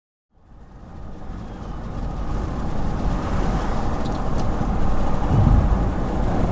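Fire engine approaching on a highway, its engine and road noise building quickly to a loud, steady rumble.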